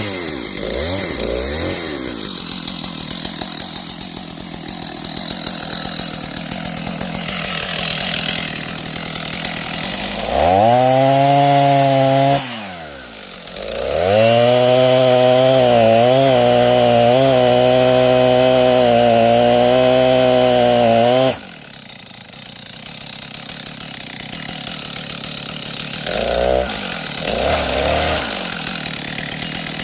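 Two-stroke chainsaw idling with short blips of throttle, then run at full throttle in two cuts, a short one of about two seconds and a longer one of about seven seconds, before dropping back to idle.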